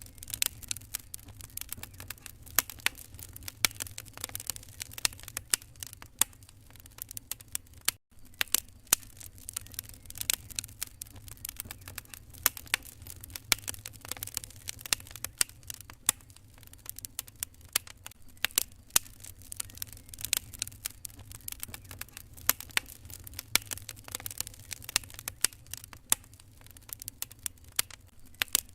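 Wood fire crackling: a dense run of irregular sharp pops and snaps over a steady low rumble. The sound cuts out for an instant about eight seconds in.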